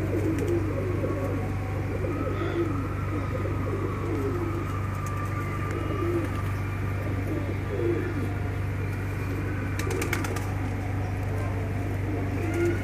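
Domestic pigeons cooing, low coos repeating every second or two, over a steady low hum. A few faint sharp clicks come about ten seconds in.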